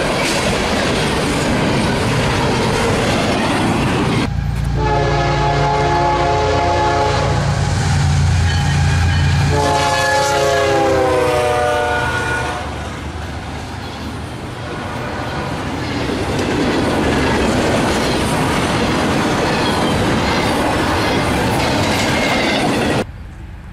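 Freight train cars rolling past with a steady rumble and wheel clatter, double-stack container cars for most of it. A locomotive's multi-chime horn sounds two long blasts, about five and ten seconds in, the second falling slightly in pitch.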